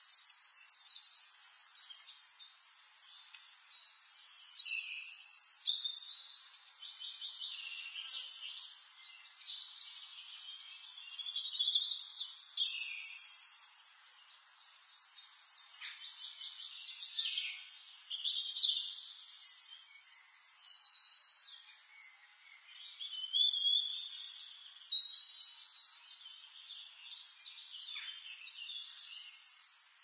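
Several songbirds singing and calling together, overlapping high chirps and rapid trills that come and go in phrases of a second or two.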